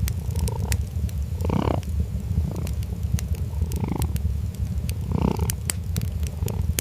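A cat purring steadily with a low, pulsing rumble, with sharp clicks scattered throughout.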